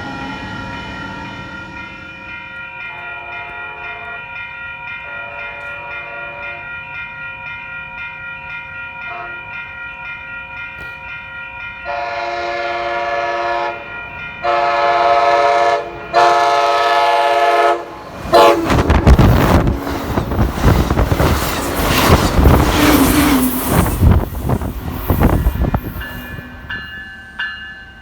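Train horn sounding three long blasts over steadily repeating grade-crossing bells, then the train passing close and loud with a rumble and wheel clatter; the bells keep ringing after it has gone by.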